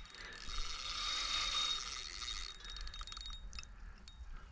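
Fishing reel's drag or clicker buzzing as a fish strips line off on a run, then slowing to separate rapid clicks about two and a half seconds in.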